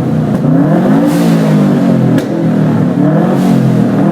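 Tuned Subaru Impreza's flat-four boxer engine revved up and down several times in quick blips through its aftermarket exhaust, with a single sharp pop about two seconds in.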